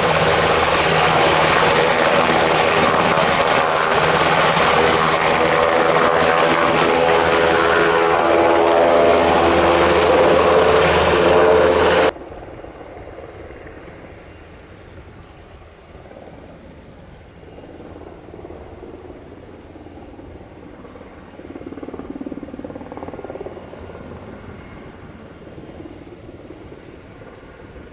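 UH-60 Black Hawk helicopter running loud and close, a steady rotor and turbine sound with several held tones. It cuts off abruptly about twelve seconds in, leaving a much fainter rumble that swells briefly a little later.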